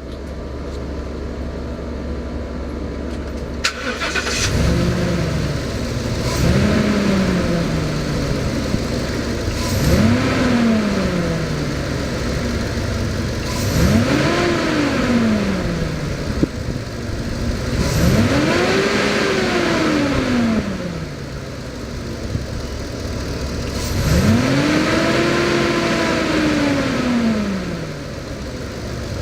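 2015 Ford F-250 4x4 pickup engine running, with a sharp click about four seconds in, then revved six times, each rev rising and falling back to idle; the later revs go higher and last longer.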